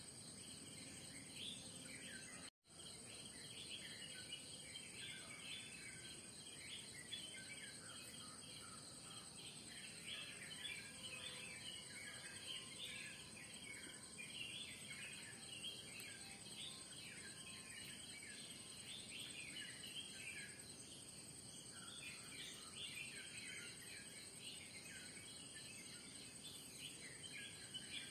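Morning chorus of many small birds chirping over a steady, high-pitched insect drone. The sound cuts out for an instant about two and a half seconds in.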